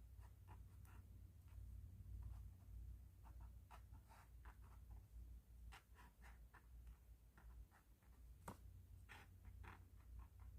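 Faint, short scratching strokes of a pen on paper, coming irregularly, several a second, over a steady low hum.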